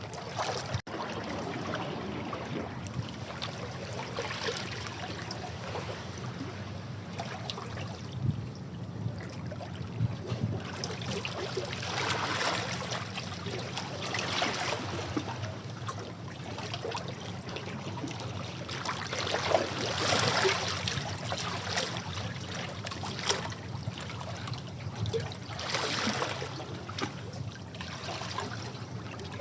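Sea waves breaking and washing over rocks: a steady rushing of water with irregular surges every few seconds that swell and fade.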